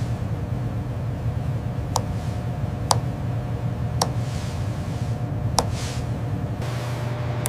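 A steady low hum with five sharp clicks at uneven intervals, about two, three, four and five and a half seconds in.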